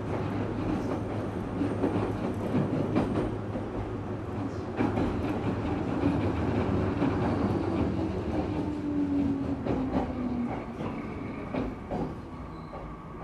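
Inside a JR 205 series electric train car with externally fanned MT61 traction motors, running between stations: a steady rumble of wheels on rail with scattered rail-joint clacks. A hum drops slightly in pitch about two-thirds of the way through, and the sound eases off toward the end.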